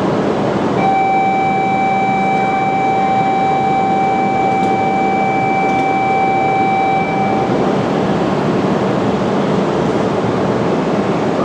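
Tohoku Shinkansen train at the platform: a loud, steady rushing noise. A steady high tone sounds over it from about a second in for around seven seconds, then stops.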